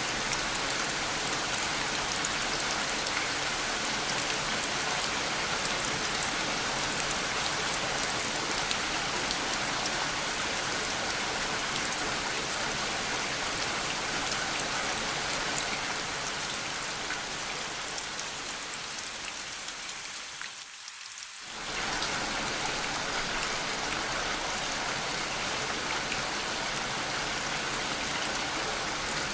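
Steady rain falling, with fine scattered drop ticks. About two-thirds of the way through it fades down and drops out for about a second, then returns at full level.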